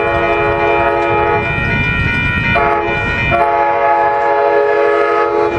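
Amtrak Pacific Surfliner locomotive sounding its multi-note chime horn as it approaches: a long blast that ends about a second and a half in, a short blast, then another long one that stops near the end, the usual grade-crossing pattern. Rumble of the oncoming train underneath.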